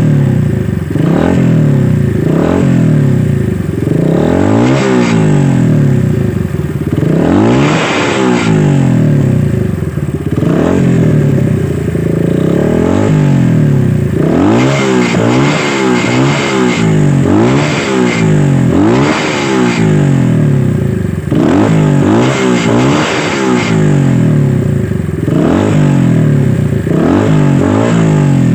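Viar Cross X 150 single-cylinder four-stroke motorcycle engine, breathing through its stock exhaust, being revved again and again while standing. The engine speed climbs and drops back every second or two.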